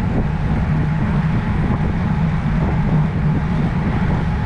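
Steady wind rush buffeting the microphone of a road bike's camera at riding speed, a constant low rumble with no let-up.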